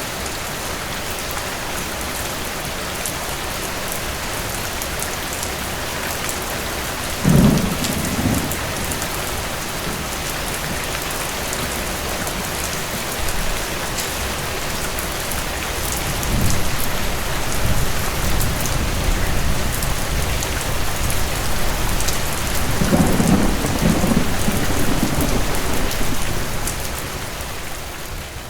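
Steady rain with thunder: a sudden thunderclap about seven seconds in, then a long rolling rumble of thunder that starts around the middle, swells with a second peak, and fades away near the end.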